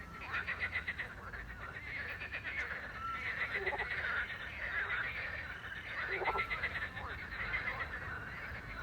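Chorus of frogs croaking in rapid pulsed trains by a river at night, with an owl giving a short, level whistled note about every three seconds.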